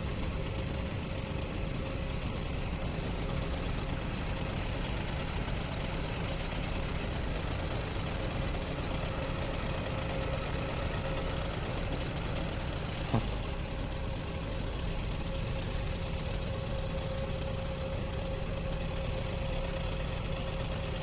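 An engine idling steadily, a constant low running hum with a single sharp click about two-thirds of the way through.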